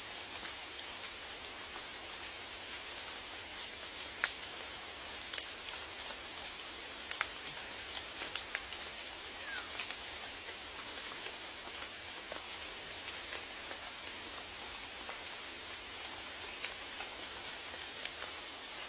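Steady rain falling, with individual raindrops tapping out distinctly over the hiss; one drop about four seconds in is the loudest, and a few more stand out in the middle of the stretch.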